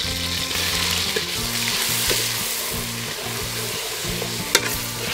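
Curry paste sizzling as it fries in oil in an aluminium pot, stirred with a metal ladle. A sharp clink of the ladle against the pot about four and a half seconds in.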